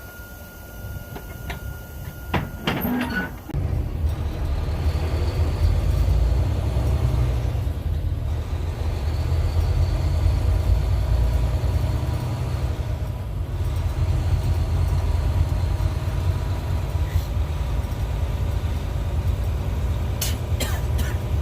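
Semi truck's diesel engine running under way, a deep low rumble that sets in about three and a half seconds in and holds steady, dipping briefly twice. A few clicks and a faint steady high tone come just before it.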